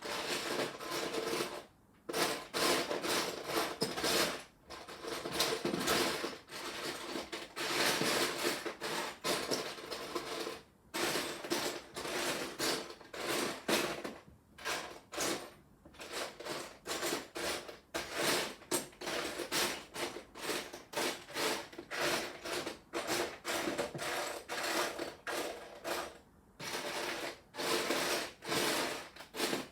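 Hands rummaging through a pile of loose plastic Lego bricks, a continuous clatter and rattle of small pieces knocking together, broken by a few short pauses.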